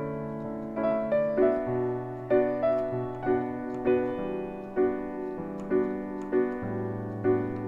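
Piano playing a slow bossa nova: a melody of struck notes over sustained chords and a bass line, with the chord changing every second or so.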